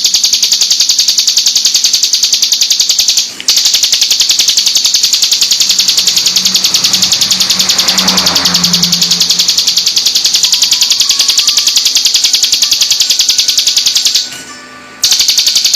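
Ciblek gunung (a prinia) calling in a rapid-fire run of high, sharp notes repeated many times a second. The run breaks off briefly about three seconds in and again near the end.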